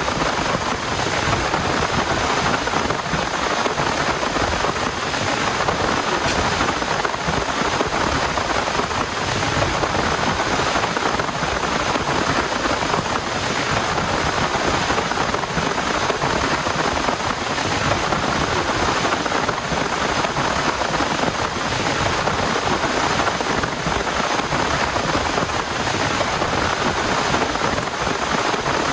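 Heavy rain falling steadily, an even, unbroken hiss with no distinct thunderclaps.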